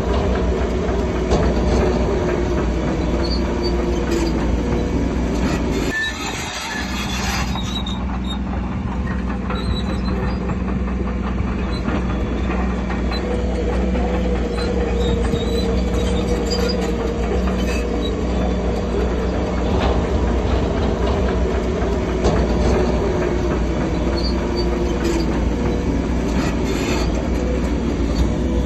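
Crawler bulldozer working: a steady diesel drone with a wavering whine above it and repeated metallic clanks from its steel tracks, dipping briefly about six seconds in.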